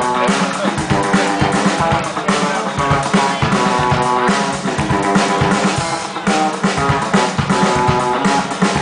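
Live band playing an instrumental passage: drums with sustained pitched instruments over them, no singing.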